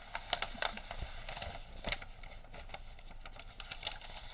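Irregular crackling and clicking of kit packaging and paper sheets being handled.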